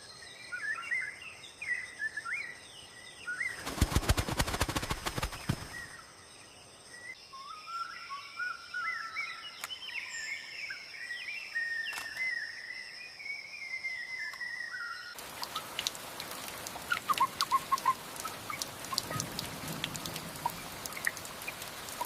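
Forest ambience: small birds chirping and calling, with a burst of rapid wing flapping about four seconds in. From about fifteen seconds a steady hiss with light pattering takes over.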